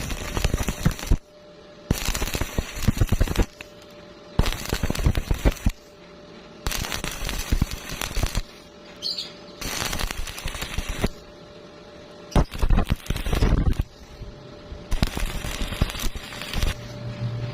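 Stick welder arc crackling in about seven short bursts, each about a second long with brief pauses between, like a run of quick tack welds, over a faint steady hum.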